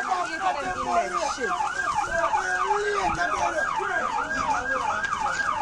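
Emergency vehicle siren in a fast yelp, its pitch sweeping up and down about four times a second.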